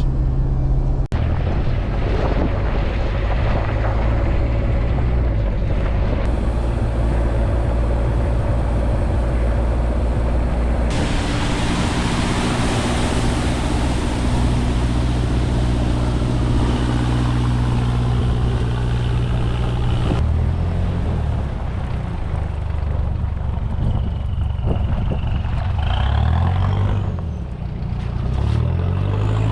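1994 Toyota Surf's engine running as the truck drives, a steady low engine note over road noise, with revs rising and falling near the end. The sound changes abruptly several times, as if cut between separate driving clips.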